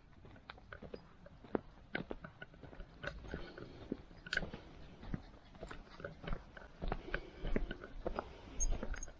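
Footsteps crunching on a woodland path: a run of irregular crunches and clicks, with low thumps that grow stronger toward the end.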